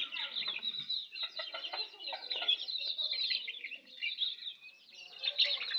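A flock of baby chicks peeping in a dense, continuous stream of short high calls, with lower hen clucks mixed in. The peeping thins out briefly about four seconds in.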